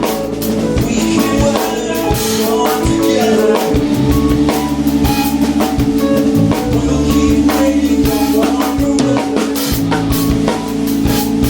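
Live band playing, with the drum kit up front: kick, snare and cymbal strokes over held bass and other pitched instruments.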